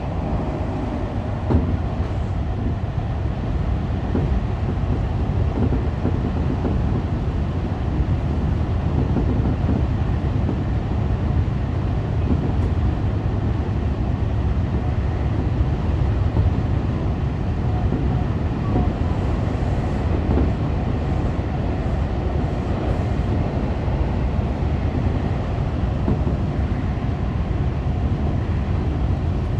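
Commuter train running at speed on the Tokyo Metro Fukutoshin Line, heard from inside the leading car: a steady low rumble of wheels on rail, with a few faint clicks from the track.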